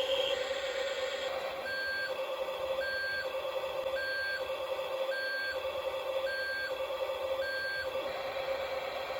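Toy RC truck's reversing alarm sounding six short electronic beeps, about one a second, over the steady whine of its electric drive motor.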